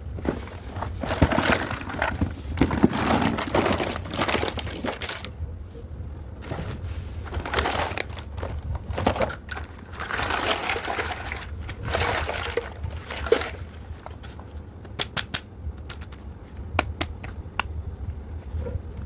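Toy packaging being handled and opened, crinkling and rustling in long uneven stretches, then a run of light sharp clicks near the end.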